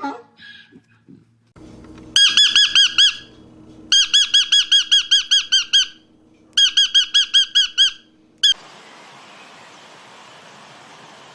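A bird calling in three rapid runs of high, squeaky, arched notes, about seven a second, followed by a single note; then a steady hiss.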